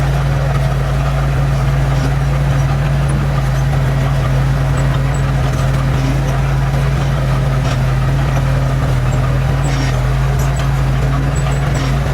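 Heavy construction machine's diesel engine running steadily at an even, unchanging speed.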